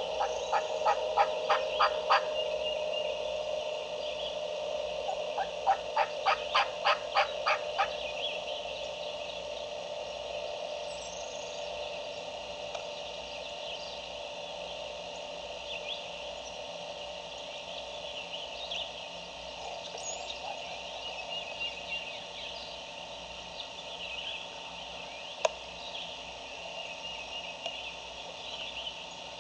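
Two runs of short, evenly spaced turkey yelps, about four a second. The first starts about half a second in, and the second comes about six seconds in, each run lasting under two seconds. Faint songbird chirps carry on between them.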